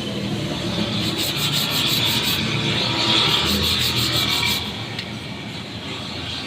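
Continuous rubbing, scraping noise from hand work on a part, easing off about five seconds in.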